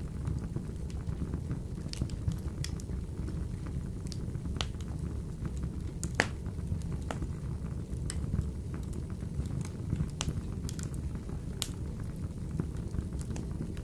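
Wood fire burning in a wood-burning stove: a steady low rumble with scattered sharp crackles and pops, the loudest about six seconds in.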